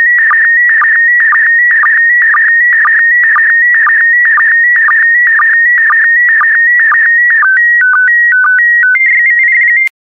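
PD120 slow-scan TV (SSTV) image signal: a warbling electronic tone around 2 kHz, broken about twice a second by a short lower sync pulse as each pair of picture lines is sent. About seven and a half seconds in, the rhythm breaks into a few stepped tones and a quick warble, then the signal cuts off: the end of the image transmission.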